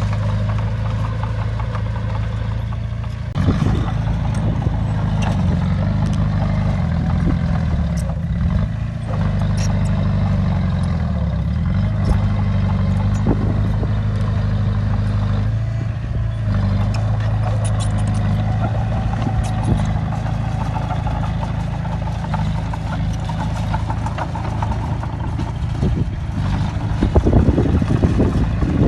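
A bulldozer's diesel engine runs hard while pushing dirt. Its pitch sags and recovers several times as the load changes, and a burst of metallic clattering comes near the end.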